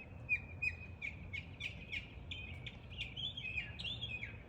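A songbird singing a quick run of short chirps and slurred notes, several a second.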